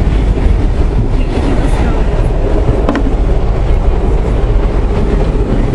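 Inside a moving passenger train carriage: the steady rumble of the train running on its track, with a single sharp click about three seconds in.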